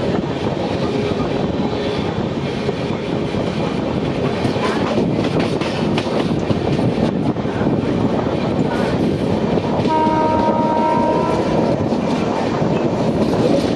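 Express train running on the rails with a steady rumble and clatter. About ten seconds in, a train horn sounds once for about a second and a half.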